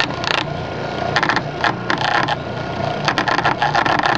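Homemade lathe driven by a salvaged sump pump motor, humming steadily while a chisel cuts a spinning square-cut wood blank: bursts of rapid clattering and scraping as the corners strike the tool, running almost continuously near the end.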